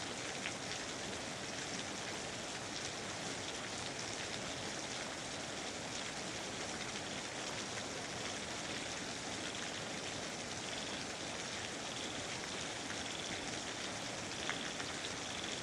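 Steady rain falling in a rainforest, an even hiss with a couple of louder single drops about half a second in and near the end.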